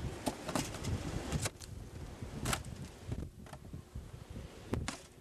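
Irregular crunching steps in deep snow over wind noise. The wind eases after about a second and a half.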